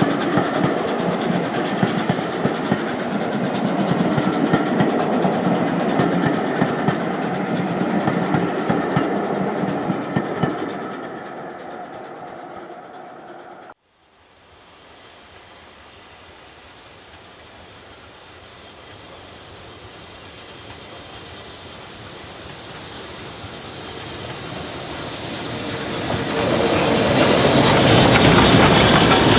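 Steam-hauled train running by, its wheels clicking over the rail joints, then fading away. After a sudden cut, another train approaches and grows loud near the end.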